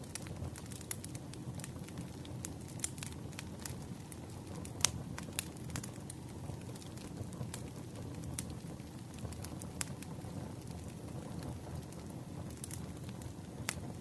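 Wood campfire crackling: irregular sharp pops and snaps over a steady low rumble, with one louder pop about five seconds in.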